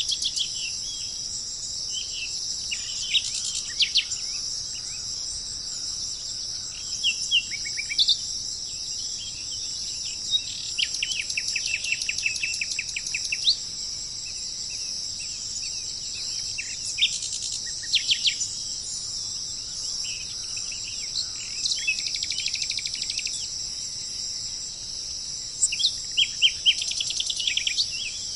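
Small songbirds singing in short chirping phrases and rapid trills every few seconds, over a steady high-pitched insect chorus.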